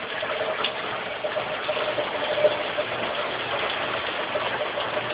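Steady noise of tropical-storm rain and wind, with a faint steady hum underneath.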